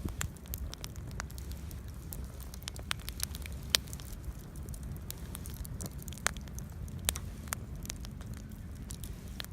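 Wood fire crackling in a small homemade fire pit: sharp, irregular pops over a low steady rumble.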